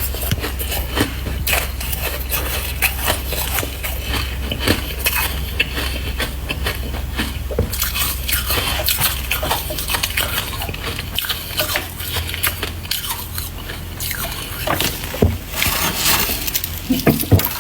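Freezer frost being chewed close to the microphone: a dense, irregular crunching and crackling, with a low steady hum underneath.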